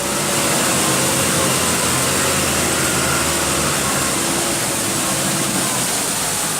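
Truck engine running steadily, under a broad hiss.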